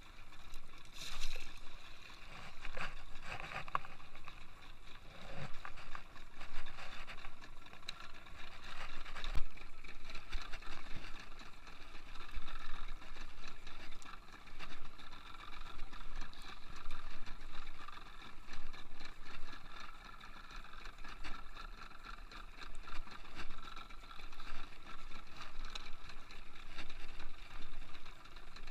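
Sea water lapping and splashing against a small boat, in uneven surges.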